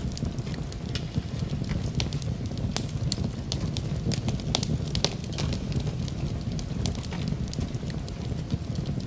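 Fireplace fire crackling, with many sharp, irregular pops and snaps over a steady low rumble.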